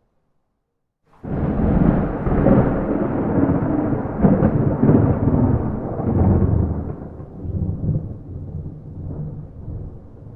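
Thunder with no rain: a peal breaks in abruptly about a second in, rolls with several swells, then slowly dies away.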